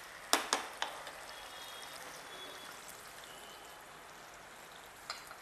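Yogurt-marinated chicken pieces shallow-frying in hot oil in a pan, a steady soft sizzle, with a few light taps of a spatula against the pan in the first second and one more near the end.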